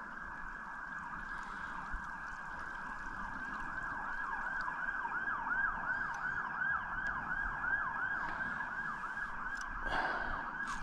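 Distant emergency-vehicle siren in a fast yelp, its pitch sweeping up and down about three times a second and growing louder about halfway through.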